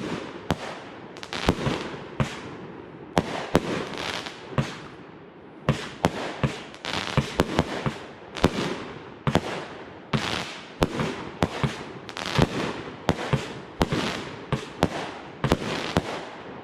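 Fireworks going off: an irregular, rapid string of sharp bangs, at times several a second, each trailing off quickly.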